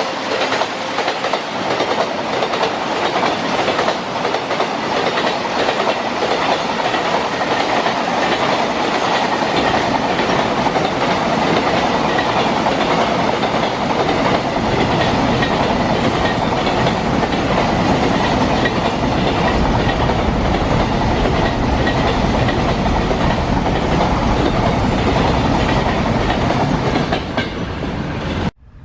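Diesel-hauled train passing close by at speed, its coaches' wheels clattering steadily over the rail joints, the rumble growing deeper partway through. The sound cuts off suddenly near the end.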